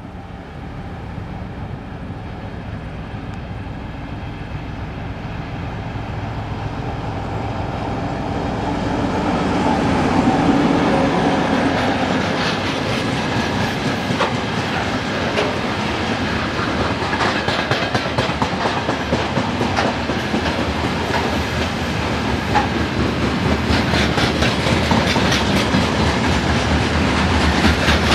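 M62 diesel locomotive approaching and passing, its engine growing louder until about ten seconds in, then the wagons of its freight train rolling by with a continuous clickety-clack of wheels over rail joints and many sharp clicks.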